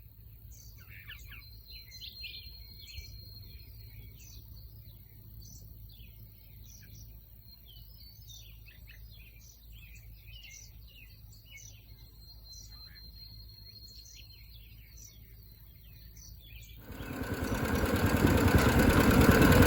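Birds chirping, many short calls over a faint low hum. Near the end a much louder noise rises in, like an engine running close by.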